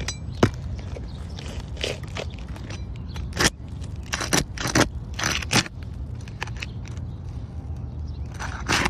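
Flat shingle-removal tool scraping and prying under brittle asphalt shingles, breaking them free of their sealant strip, in a string of short scrapes and cracks. The scrapes come thickest in the middle, with a sharp click near the start and one more scrape near the end.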